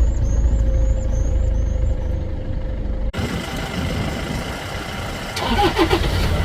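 Safari jeep engine running with a steady low rumble, and a faint repeating high chirp above it. About three seconds in the sound cuts abruptly to a quieter stretch of engine noise.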